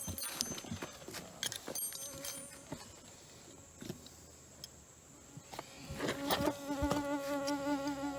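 Scattered light clicks and knocks, then about six seconds in a flying insect starts buzzing close by: a steady, slightly wavering buzz.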